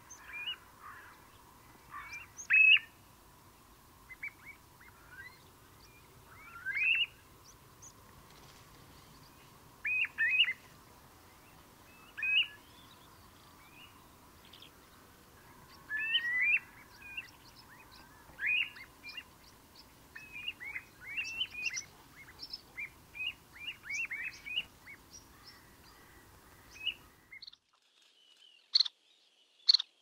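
Wild birds calling: short, clear chirps and rising whistles in scattered bouts, at times several in quick succession. The background changes abruptly near the end, with a few sharper high calls after it.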